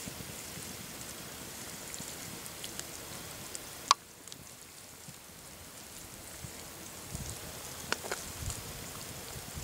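Deer organ meat sizzling steadily in a skillet over coals. A sharp clink of the fork against the pan comes about four seconds in, and another near eight seconds.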